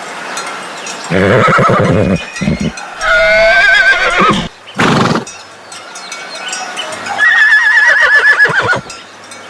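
Horse whinnying several times: loud calls with a quavering pitch, the longest near the end.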